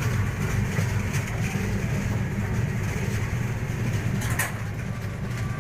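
Passenger train running: a steady low rumble with hiss above it, and one sharp click about four and a half seconds in.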